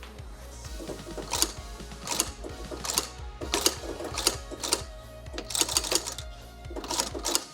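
Sewing machine stitching glove leather in short, uneven runs of clicks, over background music.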